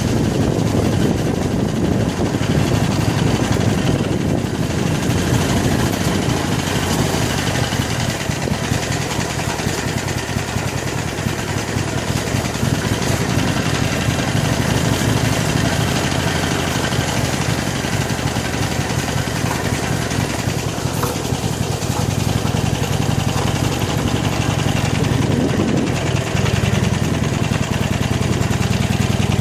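Harley-Davidson Iron 883's V-twin engine running steadily at low revs as the motorcycle crawls over a rough off-road track, a little louder near the end.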